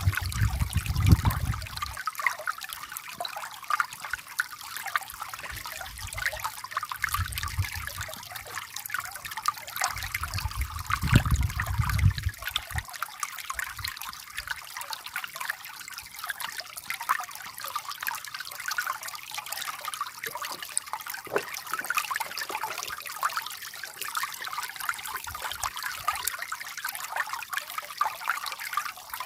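Water trickling steadily, with low rumbles a few times.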